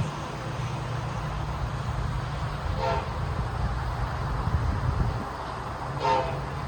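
Union Pacific diesel locomotive rumbling steadily, with two short toots of its air horn about three seconds apart.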